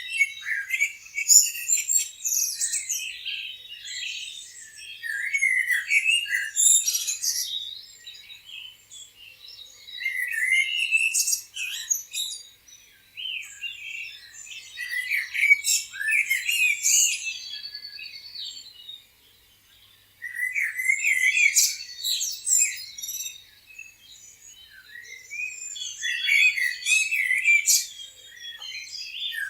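Several songbirds chirping and trilling in overlapping short phrases that come in waves every few seconds, with a brief lull about two-thirds of the way through.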